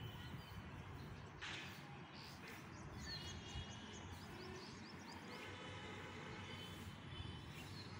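Faint birds chirping in short repeated calls over a low, steady background hum of outdoor noise.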